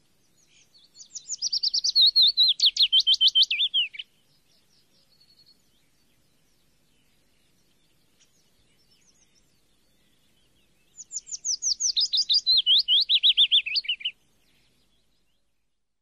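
A songbird singing two rapid, high-pitched trilled phrases about three seconds each, every note a quick downward sweep and each phrase dropping in pitch towards its end. The second phrase begins about eleven seconds in, with a few faint chirps in between.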